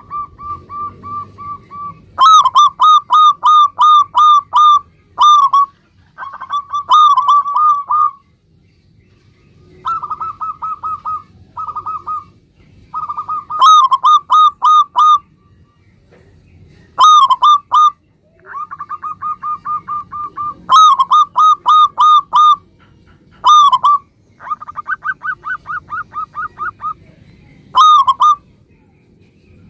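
Zebra dove singing: phrase after phrase of rapid, clear coo notes, each a quick run at much the same pitch, separated by pauses of up to about two seconds.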